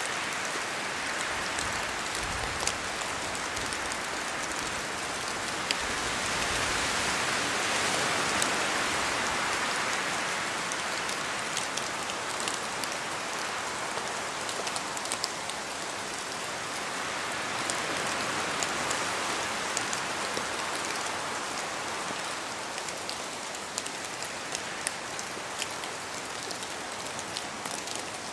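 Steady rain falling in a forest, dense hiss with many sharp individual drops tapping on leaves. The whole sound swells louder twice, about a quarter of the way in and again past the middle, as wind gusts through the trees.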